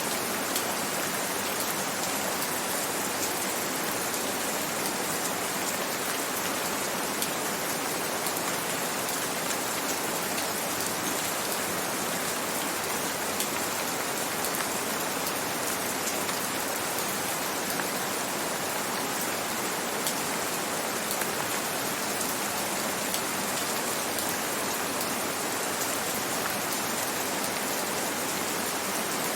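Gentle rain falling steadily, an even hiss with scattered sharp ticks of individual drops.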